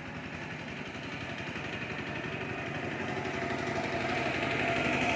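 A small engine running with a steady pulsing note, growing gradually louder.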